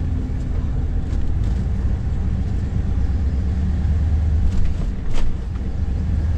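Vehicle driving slowly, heard from inside the cabin: a steady low engine and road rumble. Two short knocks come a little over halfway through.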